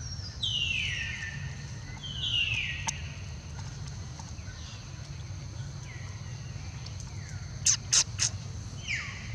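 Baby monkey giving repeated high squeals, each falling in pitch and lasting under a second. Three sharp clicks close together about eight seconds in.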